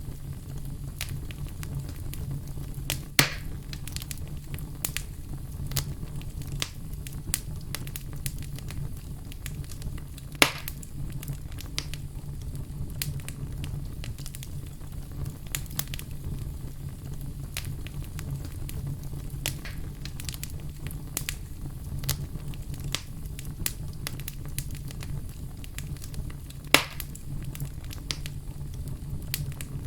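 Wood fire crackling steadily over a low rumble of flames, with constant small crackles and three louder pops, about three seconds in, near the middle, and near the end.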